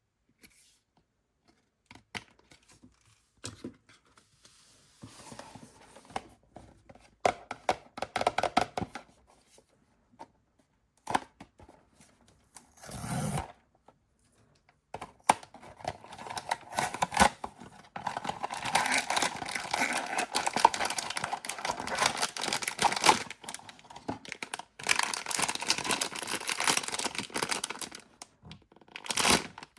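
Blind-box packaging being handled and opened by hand: scattered clicks and rustles at first, then long stretches of crinkling and tearing in the second half.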